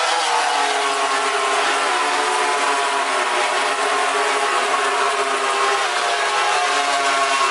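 MotoGP racing motorcycle engine running at high revs, its pitch easing down slightly in the first second and then holding fairly steady.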